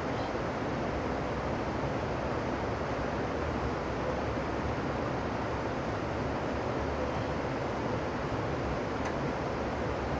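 Steady rumble and rush of a moving Amtrak passenger train, heard from on board.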